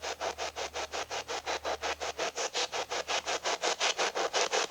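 Spirit box radio scanner sweeping through stations: an even, rapid chop of short static bursts, about four a second.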